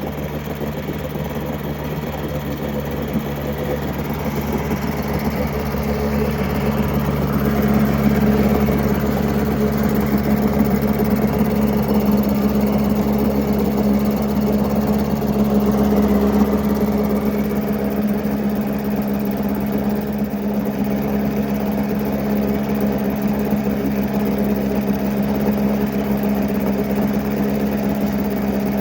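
Old 7.5 hp Mercury two-stroke outboard running in a test tank of water on its first run after 25–30 years in storage. It runs steadily and picks up a little speed several seconds in, then holds.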